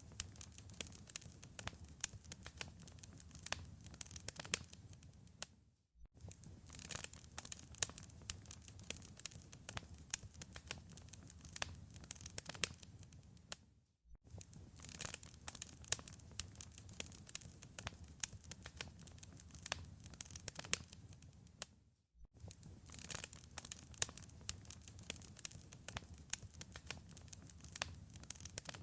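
Wood fire crackling in a fireplace: dense, irregular pops and snaps over a low rumble of flame. The sound cuts out briefly about every eight seconds.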